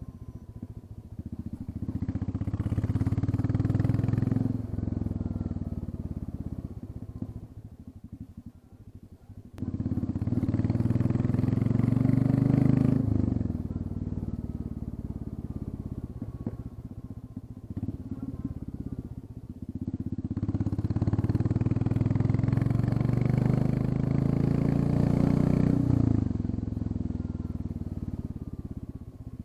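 Royal Enfield Classic 350 single-cylinder engine running with the muffler end piece removed, so the exhaust is open apart from the catalytic converters. It accelerates hard three times, the pitch climbing each time, and drops back to a lower, quieter run in between.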